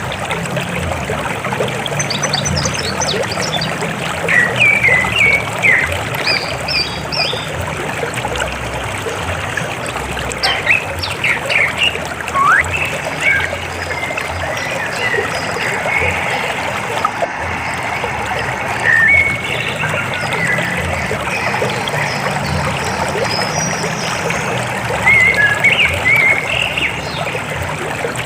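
River water flowing steadily, with birds chirping on and off above it.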